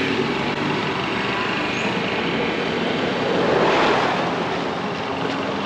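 Street traffic noise: a motor vehicle passes, swelling to its loudest about four seconds in and then fading.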